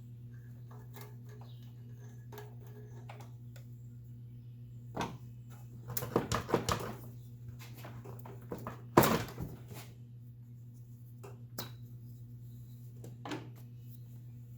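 Clicks, knocks and rattles of plastic air-intake parts being unfastened and handled with hand tools, including a louder clattering run about six seconds in and a sharp knock about nine seconds in, over a steady low hum.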